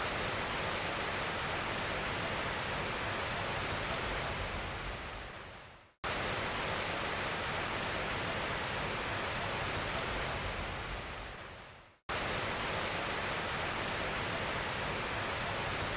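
Steady rush of a waterfall, heard as three stretches of even noise: it fades away twice and comes back abruptly each time.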